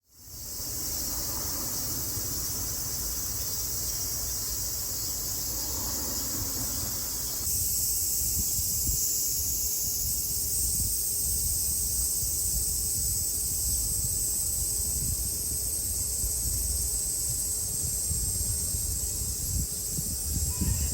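Japanese summer cicadas buzzing in a steady, continuous high-pitched chorus, over a low rumble. The sound steps up slightly louder about seven seconds in.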